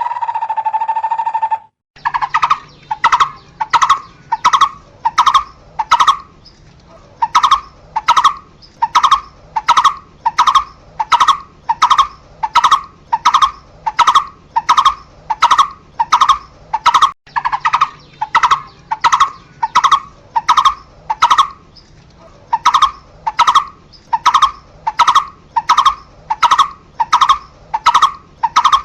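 A barbet calling, repeating one short note over and over, a little under two a second, with a few brief pauses. It opens with a single held note that cuts off abruptly before the repeated calls begin.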